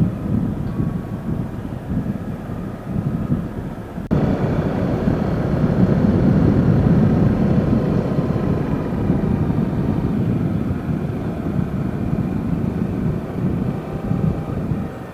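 A small motorcycle engine running under way, with wind rumbling on the microphone. The level jumps suddenly about four seconds in.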